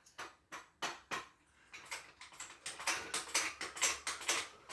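Metal hand tools clicking and clinking against suspension strut parts in a run of irregular sharp clicks and knocks, quickest in the second half.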